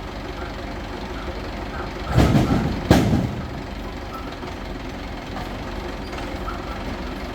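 A heavy vehicle's engine running steadily, with two brief, louder bursts of noise a little over two seconds in.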